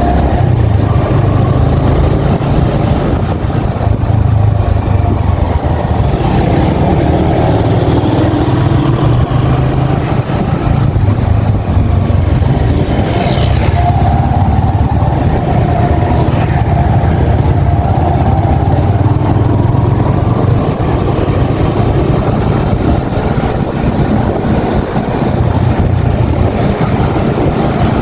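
Yamaha XSR 155's single-cylinder 155 cc engine running steadily under way on the road, its exhaust note low and even with small changes in engine speed.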